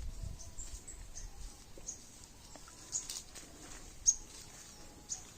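Birds chirping: short, high, scattered calls, the loudest about four seconds in, over faint outdoor background noise.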